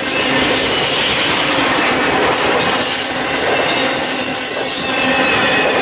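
Double-stack intermodal freight cars rolling past close by: a loud, steady rush and rattle of steel wheels on rail, with thin high squealing tones riding over it.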